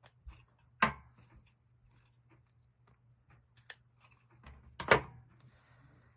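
Scissors snipping small cuts around the edge of a felt backing sheet. The snips are scattered and short, with two louder ones about a second in and near the end.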